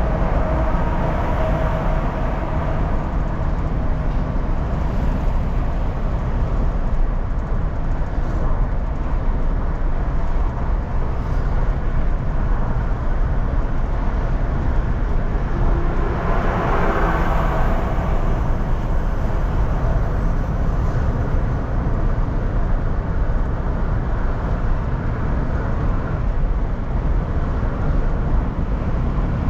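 Steady road and engine noise of a moving car heard from inside the cabin, a low rumble of tyres and engine hum. About sixteen seconds in it swells louder for a couple of seconds, then settles back.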